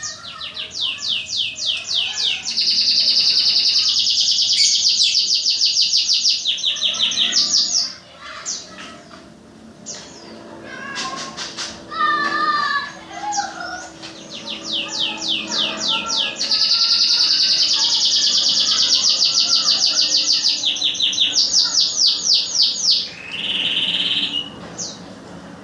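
Caged songbird singing two long, rapid, evenly pulsed high trills, each held for about seven seconds, with short chirps and calls in the pause between them. This is a song duel between contest birds, done to keep a bird's nerve up before a contest.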